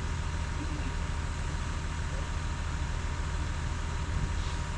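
Heavy equipment's diesel engine running steadily at a low, even rumble.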